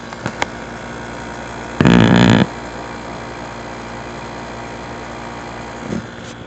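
Hampton Bay 12000 BTU window air conditioner running steadily with a steady hum. A couple of short clicks just after the start come as its control is switched to the low fan setting. About two seconds in there is a brief loud rush of noise.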